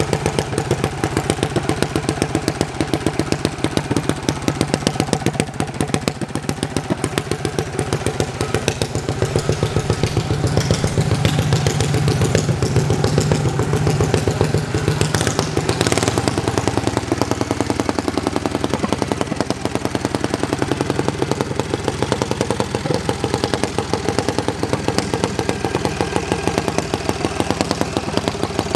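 Engine of a John Deere garden pulling tractor idling, with a regular loping beat of a few pulses a second. The engine settles slightly lower a little after halfway.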